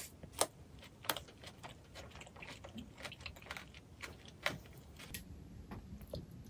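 Close-miked chewing of spicy chicken feet: a run of sharp clicks and wet smacks from teeth and lips working the chewy skin and cartilage, the loudest about half a second in, a second in and four and a half seconds in.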